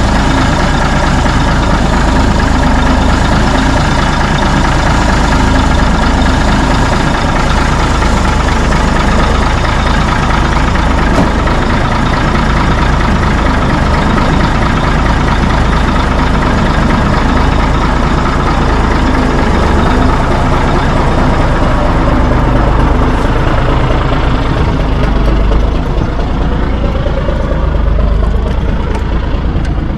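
Heavy truck engine running steadily after warming up, the sound growing duller in the last several seconds.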